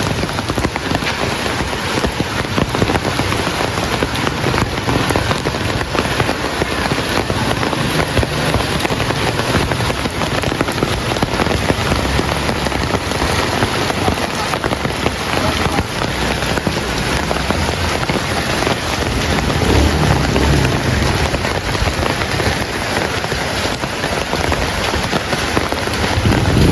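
Heavy rain falling in a steady, dense hiss. A low rumble swells up about twenty seconds in and again at the very end.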